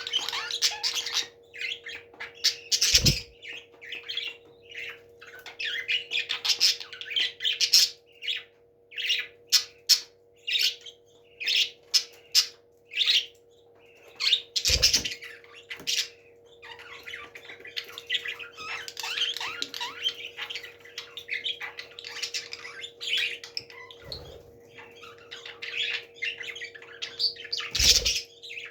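Parrots chattering in many short, high chirps and squawks, over a steady faint hum. Four sharp knocks are spread through it, one near the start, one in the middle, two toward the end.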